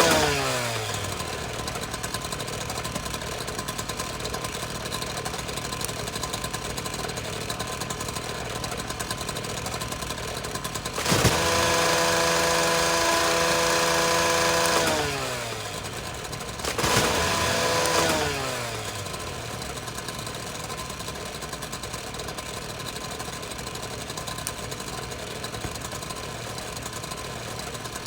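Power tool's electric motor winding down at the start, switched on again about eleven seconds in and running steadily for about four seconds before coasting down with a falling pitch, then a second short run that also winds down. Under it runs a steady, rough machine noise.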